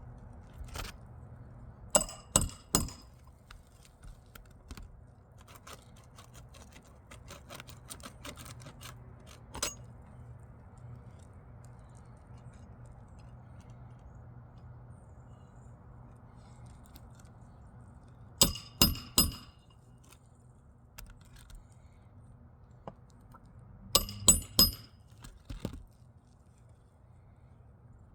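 Roofing nails being hammered into asphalt shingles: three quick clusters of sharp, ringing metal-on-metal blows, about three strikes each, with lighter taps and clicks between.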